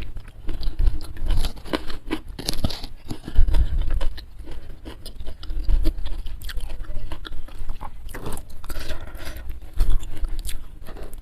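Close-miked eating sounds: irregular crunchy bites and chewing.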